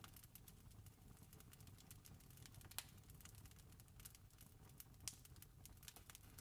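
Campfire crackling softly: irregular small snaps with two sharper pops, about three and five seconds in, over a low steady rumble.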